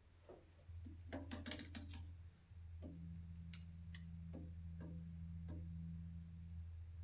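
Faint clicks and a short clatter of handling noises, over a low steady hum that comes in about a second in.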